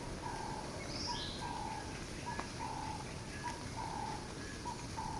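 Birds calling over a faint outdoor hiss: a short note followed by a longer one, repeated a little less than once a second, with a few brief higher chirps.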